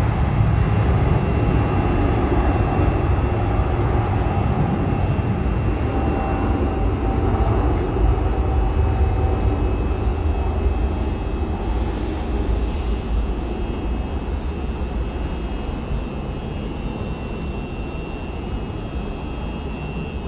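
Airbus A350-900's Rolls-Royce Trent XWB jet engines at takeoff power: a deep rumble with a steady high whine, slowly fading as the airliner climbs away.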